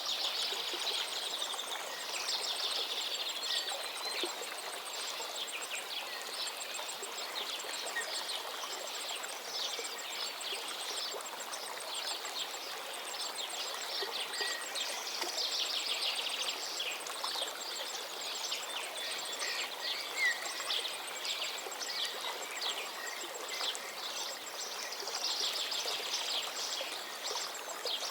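A river flowing steadily, with birds singing over it in many short calls and trills.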